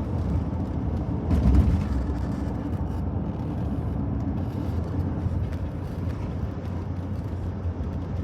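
Steady road and engine rumble of a moving car heard from inside the cabin, briefly louder about a second and a half in.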